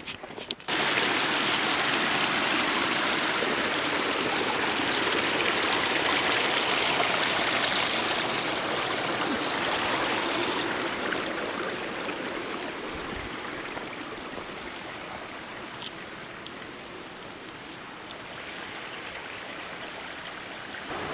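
Creek water rushing over rocks, a steady rush that starts abruptly about a second in and eases somewhat after the first half.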